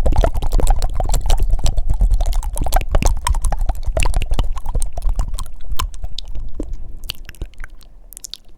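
Fast, wet mouth sounds close to the microphone: rapid tongue flutters and clicks over a low rumble. They thin out and get quieter over the last couple of seconds.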